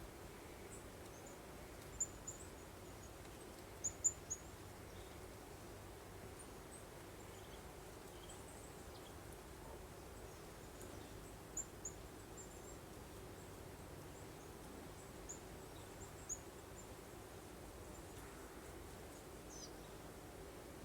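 Small birds giving short, high chirps in scattered little clusters, the loudest group about four seconds in, over a faint, steady hiss of breeze.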